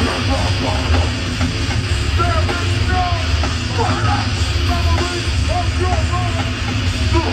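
A hardcore punk band playing live at full volume, with heavy distorted music over a strong, steady low end.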